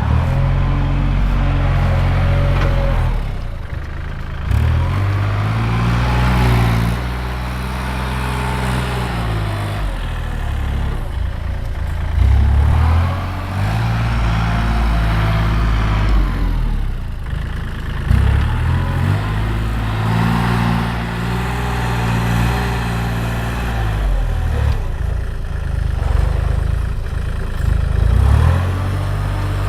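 Tractor engine working steadily, its pitch rising and falling every few seconds as it revs up and eases back.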